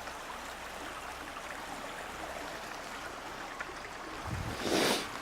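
Steady rushing of a river or stream running over its bed. Near the end there is a brief, louder rustle.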